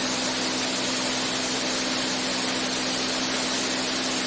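Single-engine Beechcraft A36 Bonanza's piston engine and propeller droning steadily in cruise, heard in the cockpit as an even hum under a broad hiss.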